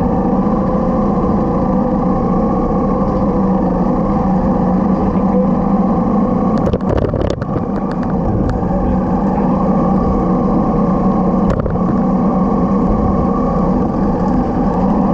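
Motorcycle engine running steadily at cruising speed. A cluster of sharp clicks or knocks comes around the middle, and a single one follows later.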